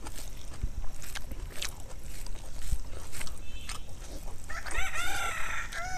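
Eating noises of chewing and lip smacks, heard as scattered short clicks. About four and a half seconds in, a rooster crows in the background for about a second and a half.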